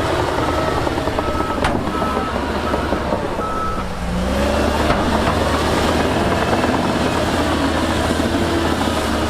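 Diesel engine of heavy earthmoving machinery running, with a reversing alarm beeping at an even pace that stops about four seconds in. The engine then revs up and carries on at higher power.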